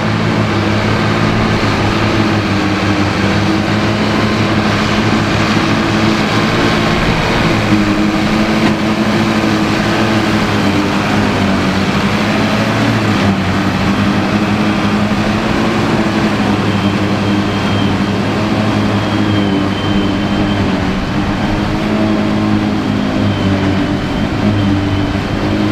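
Ford 8630 tractor's diesel engine running steadily under load while it powers a Mengele SH40N forage harvester, its pitch shifting slightly. A faint high whine comes in about two-thirds of the way through.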